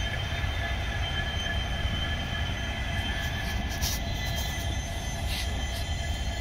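A train on the adjacent railway tracks: a steady low rumble with a high, steady whine over it, and a few faint sharp ticks in the second half.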